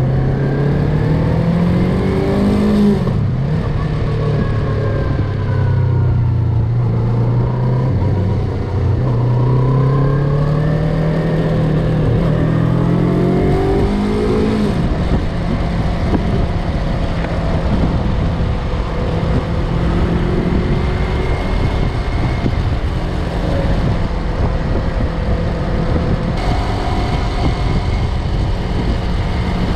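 Yamaha MT-03 parallel-twin engine under way, its pitch rising and dropping with throttle and gear changes through the first half, then holding steady at a cruise from about halfway. A constant low rush of wind runs underneath.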